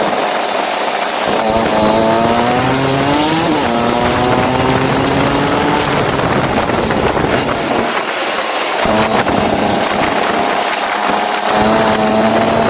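Go-kart engine running loud, its pitch rising as it accelerates and falling back as it lifts off, twice, over a steady hiss.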